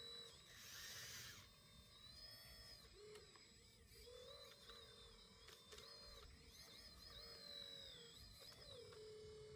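Faint whine of a small electric motor in a radio-controlled model, its pitch dipping and rising repeatedly as the load changes, with a brief hiss about a second in.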